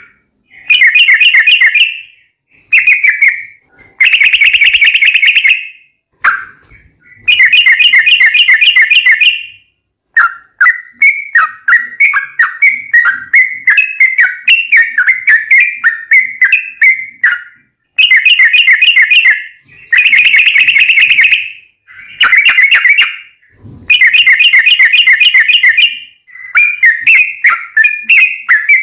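Yellow-vented bulbul (trucukan) singing loudly: bursts of fast, bubbling repeated notes lasting one to two seconds, with short pauses between, and a longer run of varied chattering notes in the middle. This is the long rolling song ('ropel panjang') played as a lure to make other bulbuls answer.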